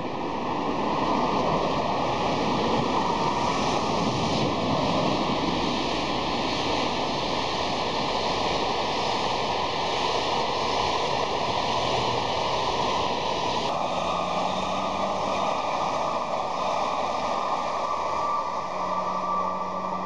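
Double-deck electric passenger train passing close beneath: a steady rush of wheels on rail that builds in the first second and thins out about two-thirds of the way through. A low steady hum comes in near the end.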